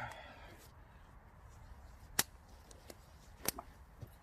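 A few sharp clicks and ticks, with two louder ones about a second and a half apart.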